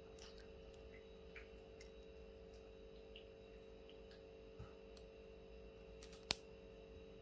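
Near silence with a faint steady hum, a few faint scattered ticks and one sharp click a little past six seconds in.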